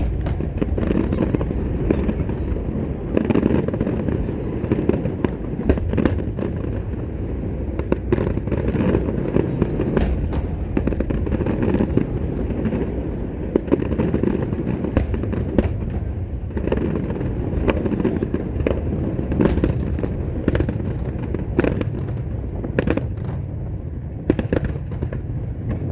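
Large fireworks display: a continuous rumble of bursts with many sharp cracks throughout.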